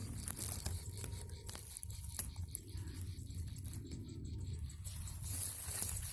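Alang-alang grass rustling and crackling with many small clicks as the stems are pushed aside, over a steady low rumble; the rustle grows brighter and louder about five seconds in.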